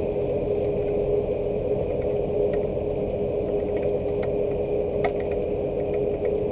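Rain falling, with scattered sharp ticks of drops, over a steady low mechanical hum that holds one constant tone.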